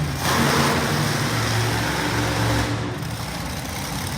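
Monster truck engine running hard under throttle: a low steady drone with a wide rushing exhaust noise that swells just after the start and eases a little near the end.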